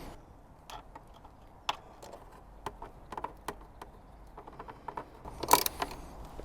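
Scattered light clicks and taps of a motorbike's gear-shift linkage being fitted back on, with a louder clatter about five and a half seconds in.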